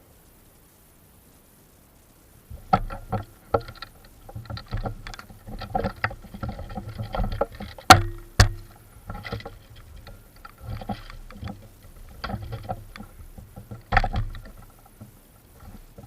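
Irregular crunching and rustling, like someone moving on foot through dry forest undergrowth and leaf litter, starting a couple of seconds in. Two sharp cracks come about eight seconds in, close together.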